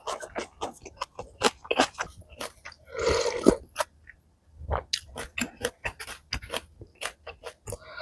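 Close-miked chewing of malatang: a quick run of short, crunchy clicks from the mouth, with a longer, denser noisy stretch about three seconds in and a brief pause just after.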